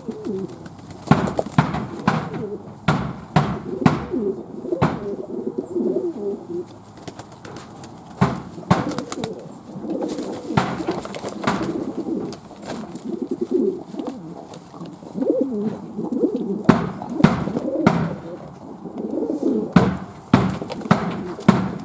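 Fantail doves cooing, low wavering coos overlapping almost without a break, with irregular sharp knocks heard throughout.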